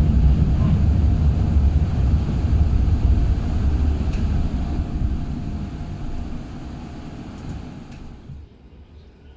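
A tram's low rumble, fading steadily over several seconds, then cut off suddenly near the end, leaving a much quieter background.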